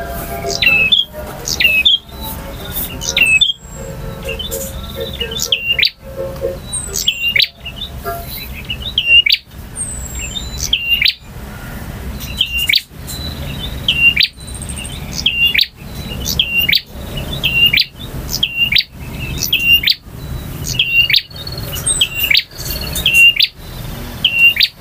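Male prinia (prenjak) singing: a sharp, high chirping phrase repeated over and over, about every second and a half.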